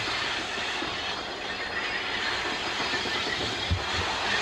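Freight train rolling past, its wheels clacking over the rail joints, with two low thumps near the end.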